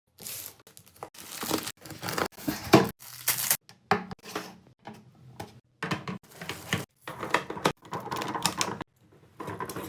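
Packaging being handled and opened in short bursts of crinkling, tearing and tapping, broken by abrupt silent cuts.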